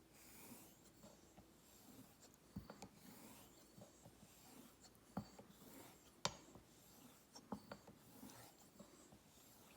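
Straight razor being honed on a waterstone: quiet rubbing strokes of the blade across the stone, with light sharp clicks of the razor against the stone between strokes, the loudest about six seconds in.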